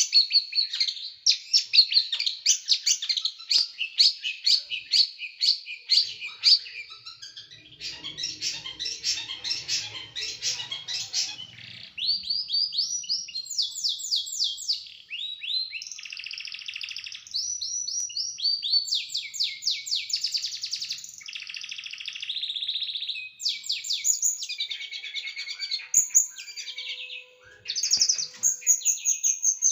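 Small songbird singing a fast, varied song of rapid, sharp repeated notes, the harsh 'shooting' bursts prized in masteran, broken by runs of quick rising sweeps.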